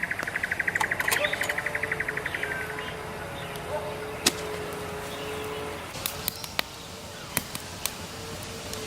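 A fast, even trilling call for the first two or three seconds, then scattered sharp pops and cracks from the campfire with a faint steady tone underneath.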